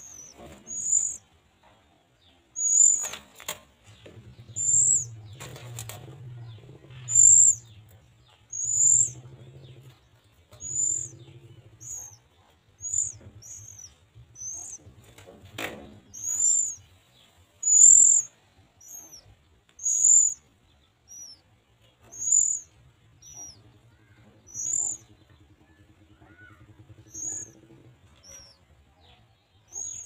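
Oriental magpie-robins at the nest give short, high chirps, each falling slightly in pitch, repeated about once a second. A few sharp knocks come near the start and about halfway through, over a faint low hum.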